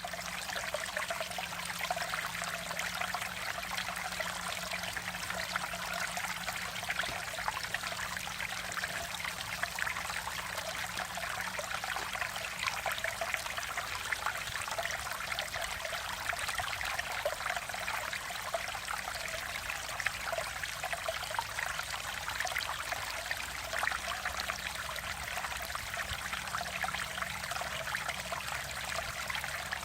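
Mountain valley stream flowing, a steady, unbroken rush and trickle of water.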